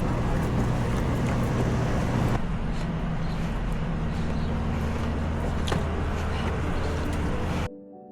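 A vehicle engine running steadily close by, its tone shifting about two seconds in. Near the end it cuts off suddenly and soft piano music begins.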